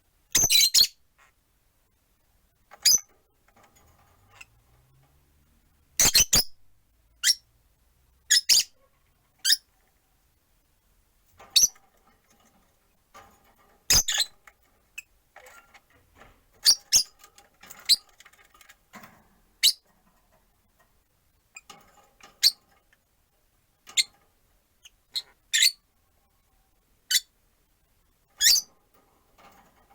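Rosy-faced lovebirds, four in one cage, giving short, sharp high-pitched chirps at irregular intervals, some in quick pairs or clusters.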